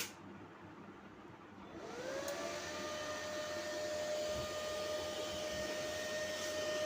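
A click, then about two seconds in an electric motor fed by a repaired Danfoss 15 HP VFD spins up with a rising whine. It levels off into a steady whine over a fan-like rush as the drive holds it at speed, a sign the drive is working.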